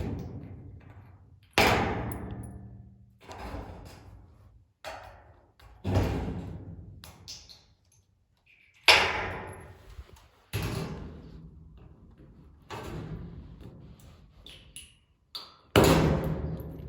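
Sheets of tin roofing banging and clanging as they are handled and knocked into place: about ten heavy, irregularly spaced hits, each ringing on for a second or so.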